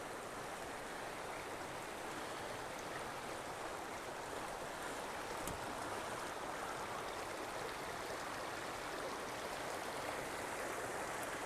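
Water of a small spring-fed stream running steadily.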